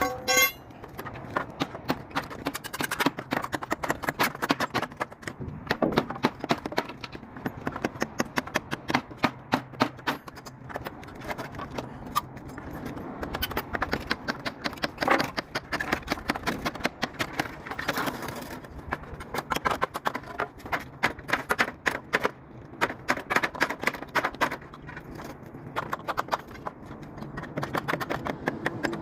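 A rapid, irregular run of sharp knocks and clicks, many a second, over a low background rumble.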